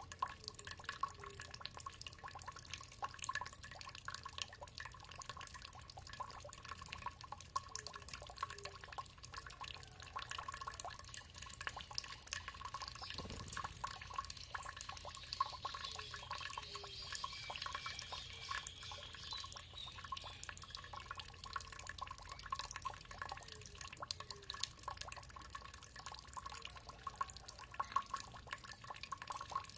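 Water dripping and trickling steadily, a dense patter of small drops. A bird sings faintly for a few seconds about halfway through.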